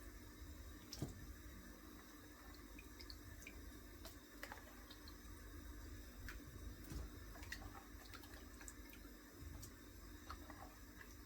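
Faint drips and small scattered plops and clicks as pieces of yam and potato go into a pot of boiling water.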